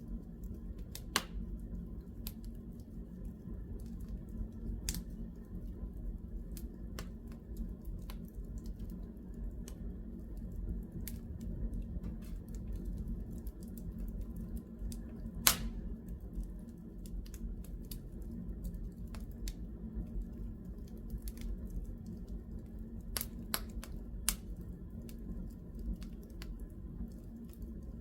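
Fire in a fireplace crackling: a low steady rumble of the flames with scattered, irregular sharp pops, the loudest about halfway through.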